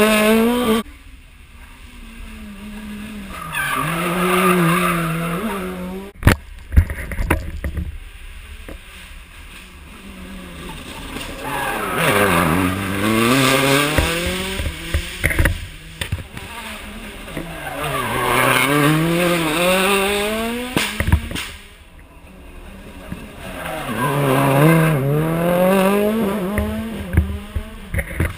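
Rally car engines revving hard through hairpin bends, the engine note rising and falling in repeated swells as the cars brake, change gear and accelerate away. Several sharp cracks cut in between the swells.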